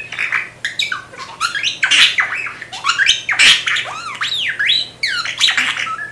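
Budgerigar chattering: a quick, varied run of chirps, squawks and rising and falling whistles, with clicks between them.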